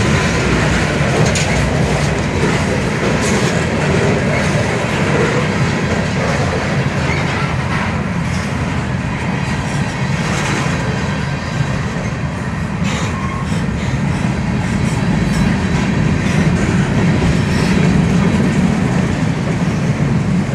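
Freight train cars rolling past at close range: a steady heavy rumble of steel wheels on rail, with scattered clicks and clacks as the wheels cross rail joints.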